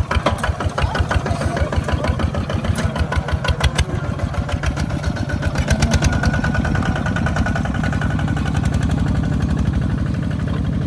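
Small farm tractor's engine running with a rapid, even chugging beat that turns into a steadier sound past the middle.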